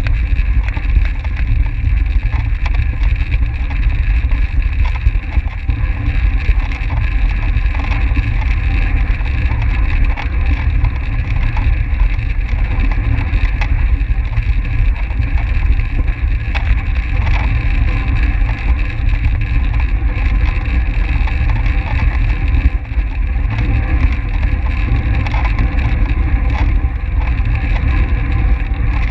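Steady rush of wind on the microphone while a track bicycle races at speed, with a heavy low rumble.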